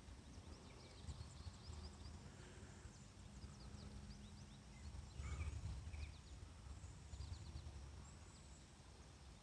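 Faint outdoor ambience: small birds chirping in quick, high, falling notes in scattered clusters, over a low rumble that swells about halfway through, with a faint steady hum in the first half.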